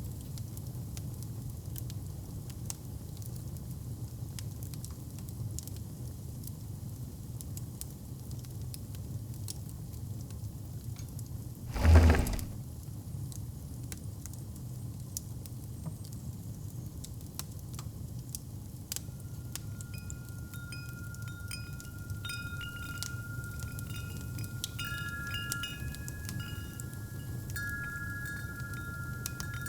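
Fireplace fire crackling with a steady low rumble, and a single loud thump about twelve seconds in. From about two-thirds of the way through, wind chimes ring several clear, lingering tones.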